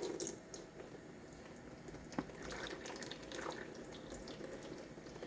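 Transmission fluid dripping faintly from a 4L60E transmission case stood on end to drain, with scattered small ticks and one sharper click about two seconds in.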